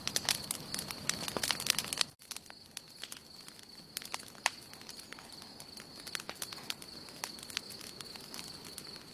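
Wood campfire crackling and popping. The pops come thick and fast for about two seconds, break off for an instant, then go on sparser over a steady faint high tone.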